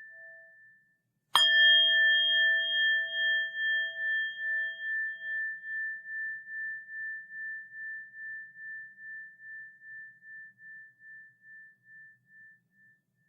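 A bell struck once, about a second in, then left to ring. Its clear tone pulses as it fades slowly away, ending near the end. The tail of an earlier strike dies out just before it.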